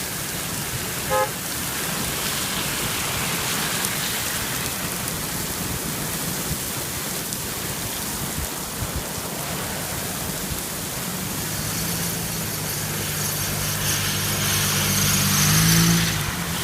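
Heavy rain falling steadily. In the last few seconds a car comes closer and passes on the wet road, its engine hum and tyre hiss swelling and then fading.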